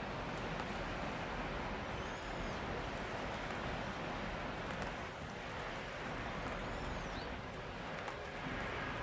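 Steady rain falling, an even hiss, with two faint high chirps, about two seconds in and again near seven seconds.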